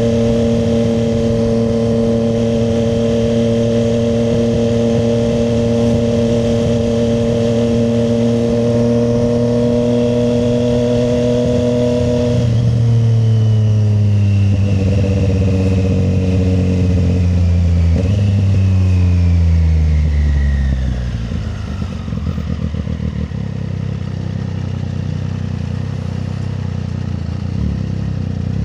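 Triumph Street Triple 765 RS inline-three engine cruising at a steady speed, then slowing down through several downshifts, its pitch falling and jumping back up with each gear change, before settling to a low idle about three-quarters of the way in.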